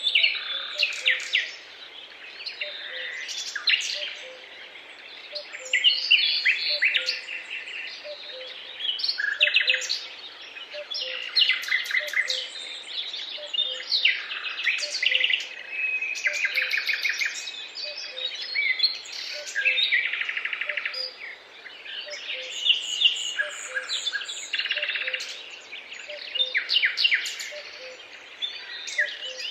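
Several songbirds singing and chirping, their phrases overlapping with short pauses between bursts. A faint, low pip repeats evenly underneath.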